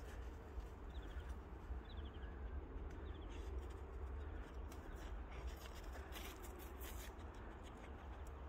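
Faint outdoor ambience: a small bird gives short, quickly falling chirp series three times in the first three seconds, over a steady low rumble. A dog searching with its nose in the snow makes soft sniffing and scuffing rustles later on.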